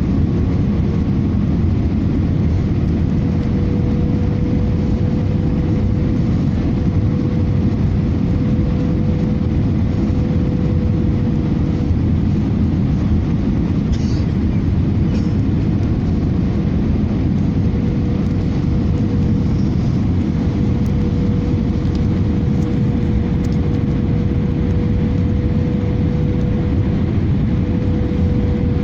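Cabin noise inside an Airbus A318 airliner: a steady low rumble from the engines and airframe with a steady mid-pitched hum.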